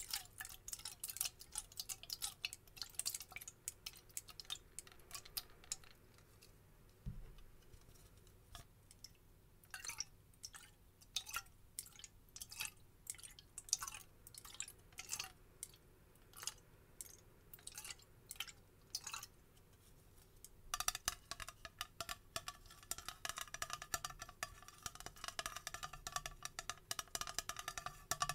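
Quick, close-up taps and clicks on a bottle of facial toner, several a second, thinning out for a few seconds and growing denser with a slight ringing near the end.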